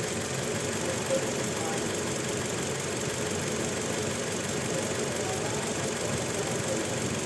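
Toyota Innova four-cylinder petrol engine idling steadily, with a misfire traced to a faulty ignition coil on cylinder two.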